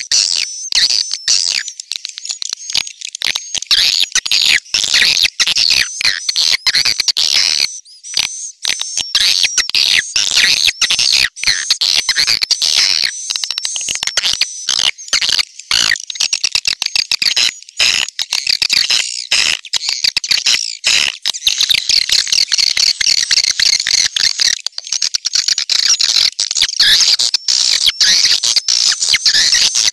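Swiftlet lure call track: a dense, continuous chorus of high, rapid twittering chirps, many overlapping. It is the kind of calling sound played from swiftlet houses to draw swiftlets in to roost and nest.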